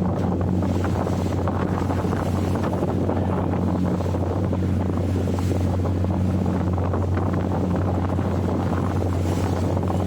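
Boat engine running at a steady, unchanging drone, with wind buffeting the microphone.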